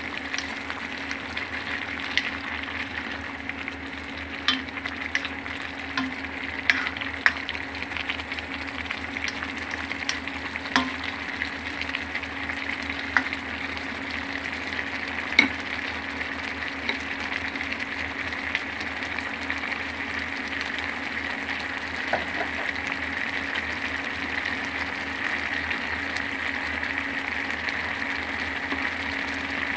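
Food sizzling steadily in a hot pan while it is stir-fried, with irregular clicks and taps of a utensil against the pan.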